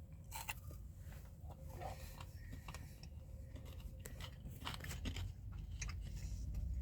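A person biting into and chewing a baked protein bar, giving faint, irregular crunchy clicks.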